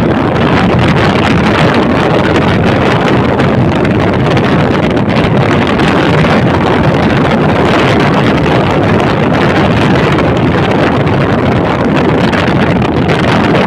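Loud, steady wind rushing over the microphone of a moving bike.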